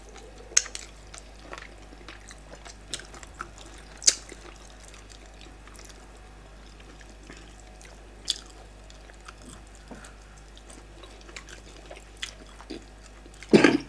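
Wet chewing and mouth smacks from people eating soft fufu and soup by hand, with scattered sharp smacks and a louder burst of mouth sounds near the end.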